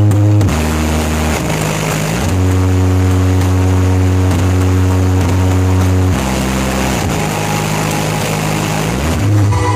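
Carnival sound system's new SPL Audio booster subwoofers playing a loud, sustained low bass tone during a sound check. The tone holds a steady pitch, then slides to a new one about five times, with the longest steady stretch lasting several seconds in the middle.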